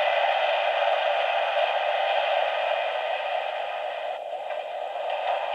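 Radio static hissing from the MTH F3A model locomotive's onboard sound system, part of its freight-yard radio chatter effects, thin and tinny through the engine's small speaker. The hiss is steady and eases a little about four seconds in.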